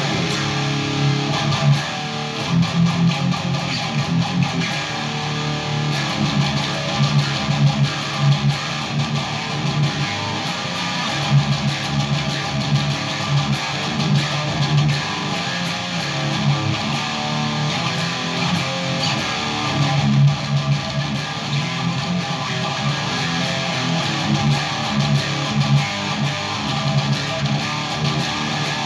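2014 PRS Custom 22 electric guitar played through a Randall Satan 120 high-gain amplifier head, strummed and picked riffs with heavy distortion throughout.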